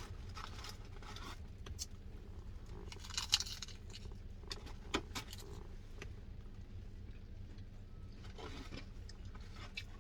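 Handling noises of food being unwrapped and eaten: scattered rustles and sharp clicks, with a short rustle about three seconds in, over a low steady hum.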